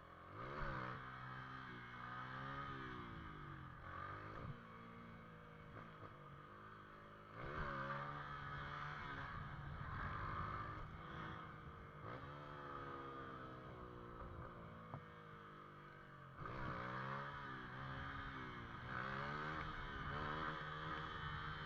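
Motorcycle engine revving up and dropping back over and over, its pitch climbing and then falling as the bike accelerates through the gears.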